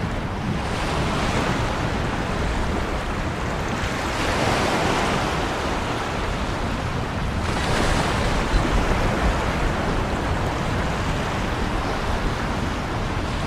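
Ocean waves breaking, with three fresh washes of surf rising and falling about every three to four seconds over a steady low rumble.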